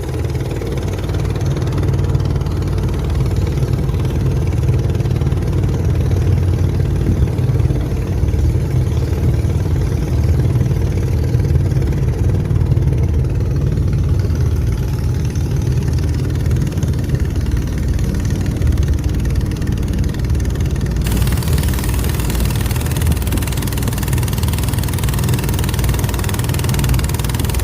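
Boat engine running steadily with a low, even rumble. About three quarters of the way through, a steady hiss joins it.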